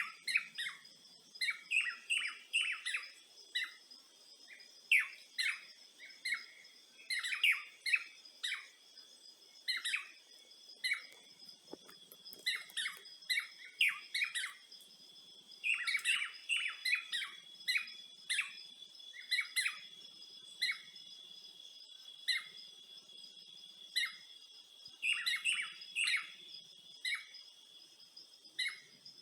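Birds chirping in many short, irregular calls, several overlapping at times, over a steady high insect trill.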